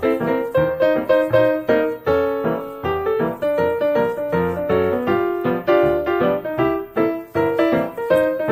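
Background piano music: a melody of quick, evenly paced notes.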